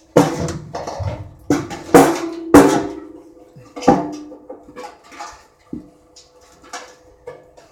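Sheet-metal furnace parts being handled: a run of loud metal clanks and knocks, each with a short ring, the five loudest in the first four seconds, then lighter taps.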